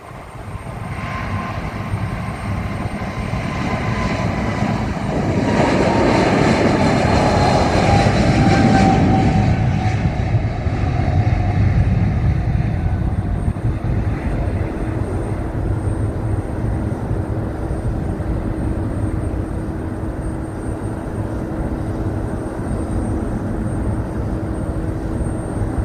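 Airplane flying past, its engine noise swelling to a peak about six to nine seconds in. An engine whine falls steadily in pitch as it goes by, then the noise settles into a steady lower drone.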